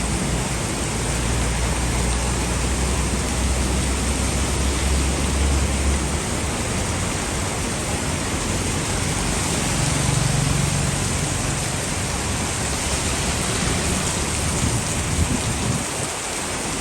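Heavy rain pouring steadily in a storm, a dense even hiss, with a low rumble underneath for the first six seconds or so.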